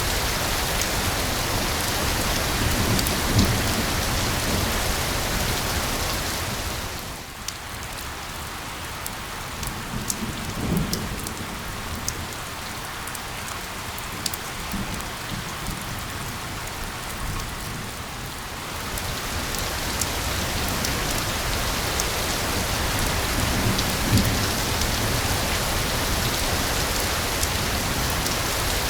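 Steady rain hiss blended with white noise, with a few low rumbles. About seven seconds in it thins and softs for some twelve seconds, single drops ticking through, then swells back to full.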